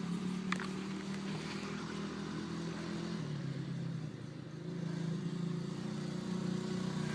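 Dirt bike engine idling steadily, its pitch sagging briefly about four seconds in and then picking back up.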